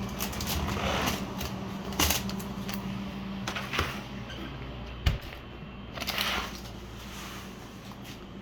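Rustling and clicking as small objects are handled, over a steady low hum, with one sharp knock about five seconds in.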